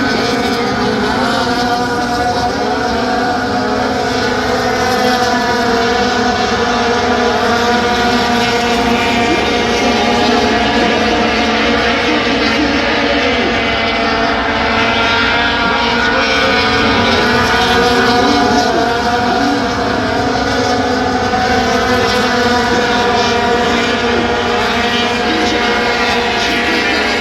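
Several race-truck engines running hard around an oval track, overlapping engine notes rising and falling in pitch as the trucks accelerate and lift.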